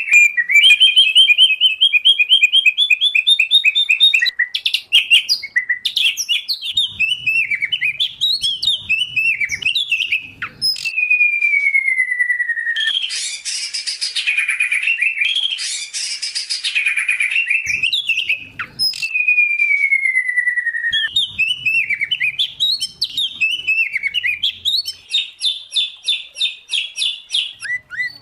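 Loud, varied songbird song from a combined recording of white-rumped shama, oriental magpie-robin and greater green leafbird: rapid trilled phrases, buzzy stretches and long, slowly falling whistles.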